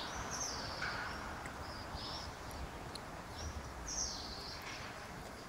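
Small birds chirping: a scatter of short high calls, with longer ones about half a second in and about four seconds in, over a steady outdoor background hiss.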